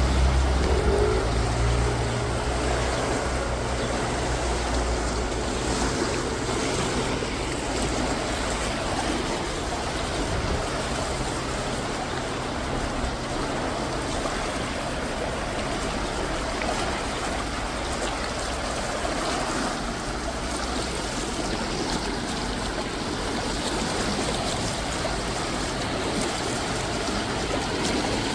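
Water rushing steadily under a bridge. A low motor rumble sounds over it at first and fades out about six seconds in.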